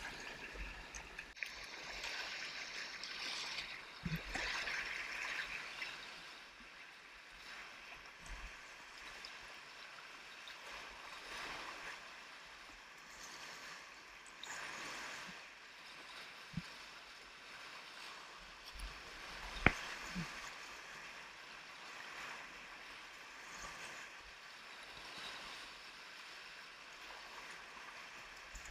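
Whitewater river running: a steady rush of moving water, louder in the first six seconds and softer after. A few faint knocks and one sharper click come about twenty seconds in.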